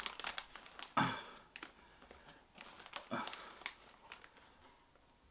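Faint clicks and scrapes of a spatula being handled and dug into a tub of powdered wood filler, with a few short soft sounds about a second and three seconds in.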